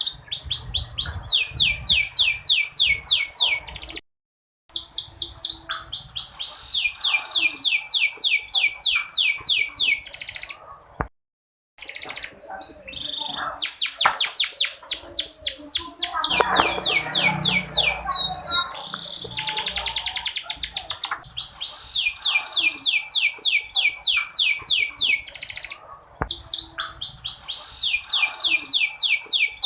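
Canary singing long trills of rapid, evenly repeated down-slurred notes, switching from one trill type to the next every few seconds, with a fast buzzy trill partway through. The song cuts out completely twice, briefly, about 4 and 11 seconds in.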